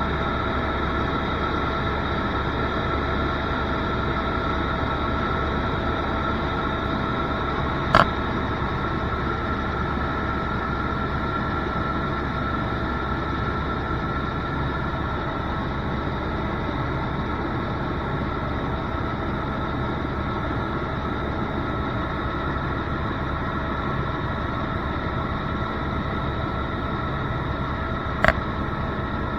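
Steady helicopter cabin noise in flight: engine and rotor drone with a constant whine, unchanging throughout. Two short sharp clicks, one about eight seconds in and one near the end.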